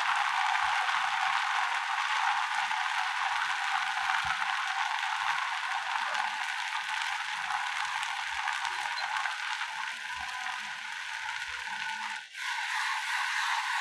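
Onion-tomato masala sizzling steadily in hot oil in a pan, a dense hiss with faint soft knocks beneath it; the sound dips for a moment near the end.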